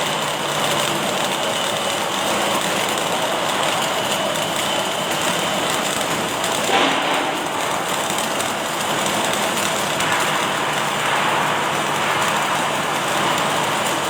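Automatic welding machine at work in a factory: a steady, even rushing noise, with one short knock about seven seconds in.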